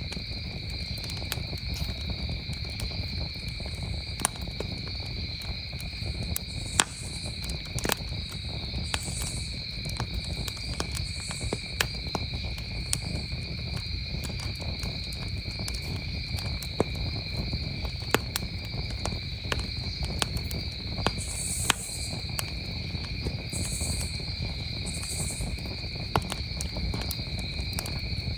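Wood campfire crackling, with sharp pops at irregular moments. Under it runs the steady, continuous chirring of crickets at two pitches.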